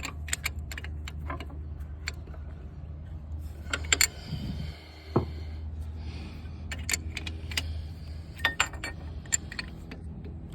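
Hand wrenches clinking and rattling against metal bolts and against each other while being fitted onto a starter's mounting bolts, in irregular sharp clicks over a steady low hum.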